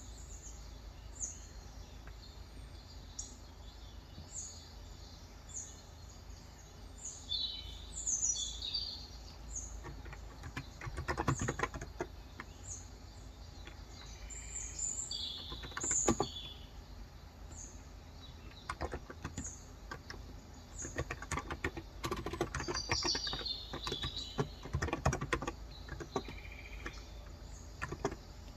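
Typing on a Cox Endeavor electrostatic capacitive keyboard with light 35 g keys: a short run of keystrokes about a third of the way in, a few more near the middle, and longer runs through much of the second half. Birds chirp in the background, short high calls about once a second throughout.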